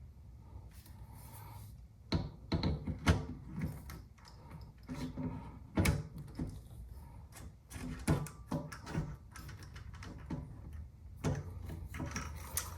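Irregular knocks, clicks and light clatter of rifle parts being handled and fitted by hand, starting about two seconds in.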